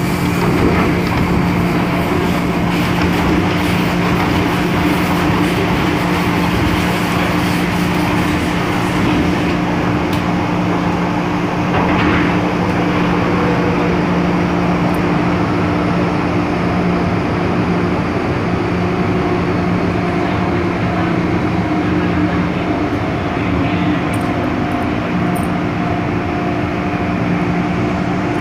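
MTR M-Train electric metro car running between stations, heard from inside the car: a steady rumble of wheels on track with several constant hum tones.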